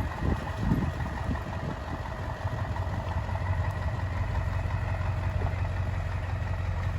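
An engine idling steadily, with a few knocks or bumps in the first second or two.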